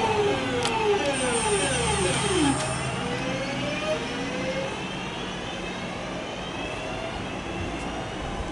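Electric train passing through and moving away: its motor whine falls in pitch over the first three seconds, with a thin high squeal for part of that, then the running noise fades.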